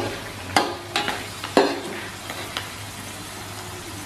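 Oil sizzling in a wok as jengkol pieces fry, with a metal spatula scraping and clinking against the wok three or four times in the first two seconds, then steady frying.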